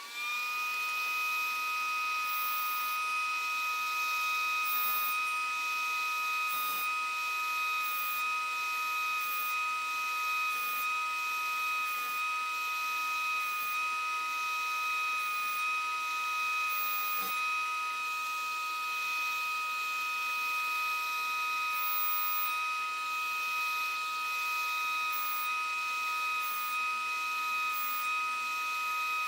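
Router in a router table switched on, its motor whining up to speed and then running at a steady high pitch.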